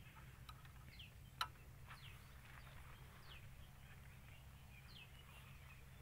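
Near silence with a faint steady background hum, a few short falling bird chirps, and a single sharp click about a second and a half in.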